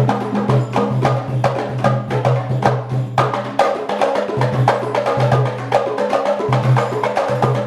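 Afro-Cuban percussion ensemble playing: sticks clicking sharply on wood in a fast, dense rhythm over low, ringing drum tones.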